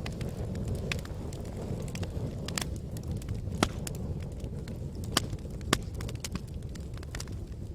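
Wood fire burning in a fireplace: a steady low rumble of flames with frequent small crackles and three louder pops.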